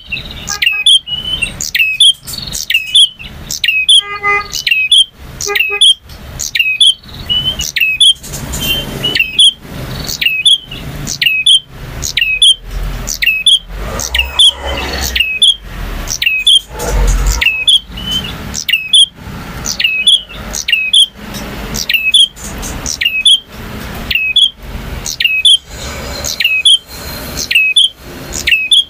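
A male prenjak (bar-winged prinia) singing a long, unbroken series of sharp, loud chirps, about one and a half a second. A low rumble sounds underneath for a few seconds in the middle.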